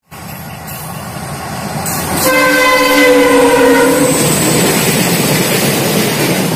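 Train running past with a rising rumble, and a locomotive horn sounding one steady blast of about two seconds, starting a couple of seconds in.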